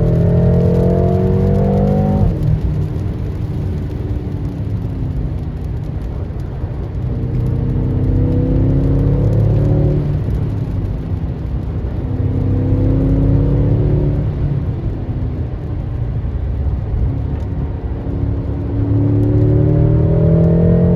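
BMW M6 Competition's twin-turbo V8 accelerating hard, its note climbing in pitch and falling away abruptly about two seconds in, then pulling up again three more times with easing-off between.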